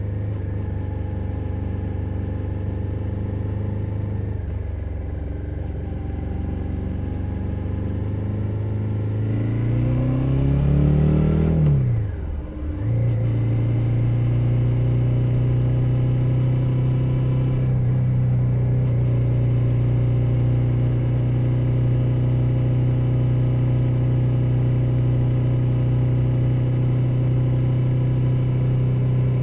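2021 Suzuki SV 650's V-twin engine running on the road. Its revs climb for a few seconds, drop sharply about twelve seconds in, as with an upshift, and then hold steady at cruise.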